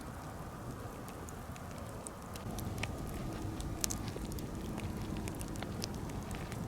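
Birch-wood campfire crackling: scattered sharp pops over a steady low rush of flame. The low rush gets a little louder about two seconds in.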